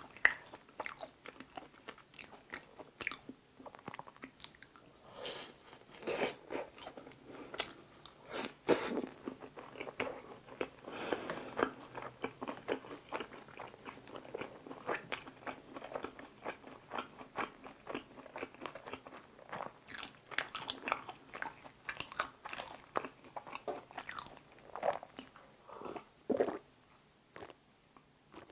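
Close-miked chewing and biting of tteokbokki rice cakes and pizza: a stream of irregular wet mouth clicks and soft crunches, thinning out near the end.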